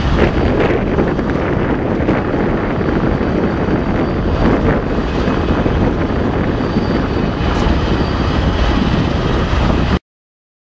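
Train passing close by, a loud steady rumble with wind buffeting the microphone; the sound cuts off suddenly near the end.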